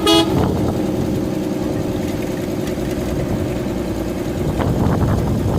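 A vehicle horn blast cutting off at the very start, then a motor vehicle's engine running steadily with a low rumble that turns rougher and noisier near the end.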